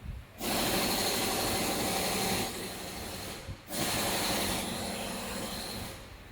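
Two bursts of loud hissing, each about two and a half to three seconds long, with a short break about three and a half seconds in; each burst drops somewhat in level partway through.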